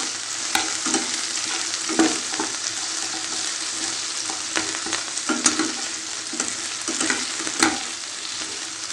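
Chicken pieces frying in hot sunflower oil with garlic, sizzling steadily, with a spatula now and then scraping and clicking against the pan as they are stirred.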